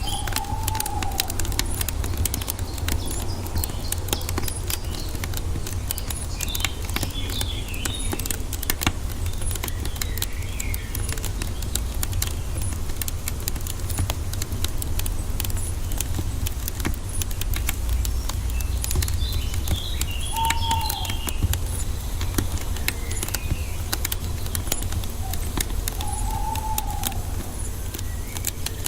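Wood fire crackling with many small pops and snaps over a low rumble. Birds call now and then: a few short arching whistles and some higher chirps.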